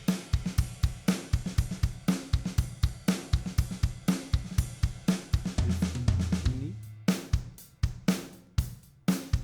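Recorded drum kit (kick, snare, hi-hat and cymbals) playing a steady groove, processed through a compressor with its release set around 100. A low sustained boom sounds a little past the middle. About seven seconds in, the cymbal wash stops and the hits turn sparser and drier.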